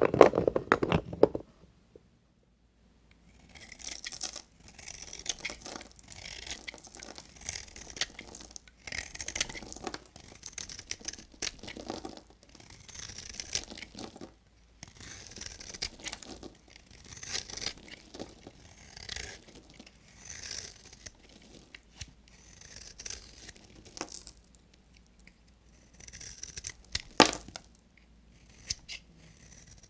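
A knife cutting and scraping through a bar of soap. It opens with a loud crunch, pauses briefly, then makes repeated rasping strokes roughly once a second, with one sharp snap near the end.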